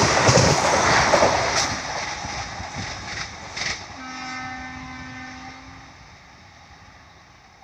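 Vande Bharat Express electric train set passing at about 110 km/h: its wheel and rail noise is loud at first, then fades steadily as it pulls away, with a couple of sharp clacks. About four seconds in, a train horn sounds one steady chord for about two seconds.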